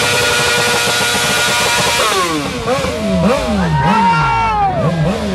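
Car engine held at a steady high rev over a loud hiss for about two seconds, then revved down and up repeatedly.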